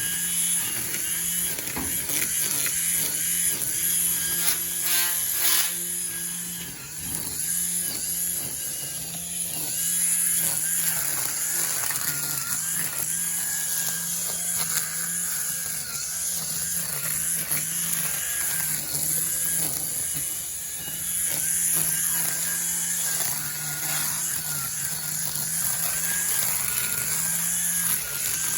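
String trimmers running steadily at high speed, cutting through grass and weeds.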